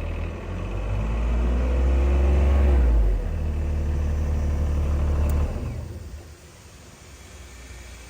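Airman PDS130SC diesel engine compressor running, its pitch rising over the first few seconds and then settling. About six seconds in the engine stops and dies away, leaving only a faint steady hiss.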